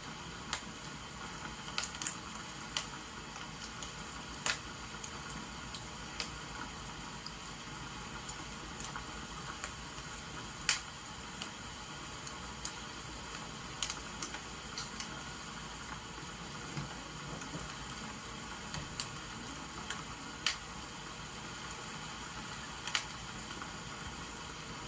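Wood fire crackling with irregular sharp pops over a steady hiss of rain.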